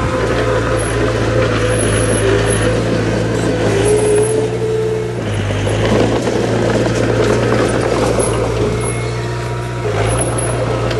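Heavy diesel earthmoving machinery running, a steady low engine drone with higher whining tones that come and go.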